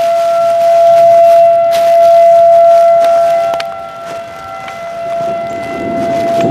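Outdoor tornado warning siren sounding one steady tone that swells loud, fades about four seconds in, then builds again.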